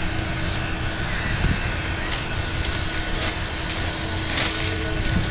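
Steady hissing rumble of Union Pacific 844, a 4-8-4 steam locomotive, standing fired up and ready to leave. A few faint ticks sound through it.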